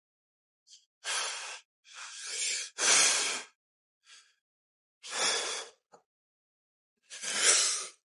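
A man breathing out hard in short, forceful puffs, five strong breaths within eight seconds, with silence between them.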